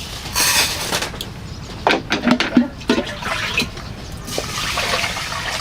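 Water splashing and pouring in short bursts, with scattered light knocks.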